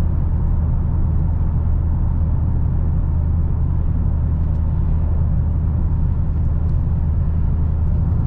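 Steady low drone of the 2022 Dodge Challenger Hellcat's supercharged 6.2-litre V8 and its tyres while cruising at an even highway speed, heard from inside the car. The hum holds one pitch and level throughout, with no revving or gear changes.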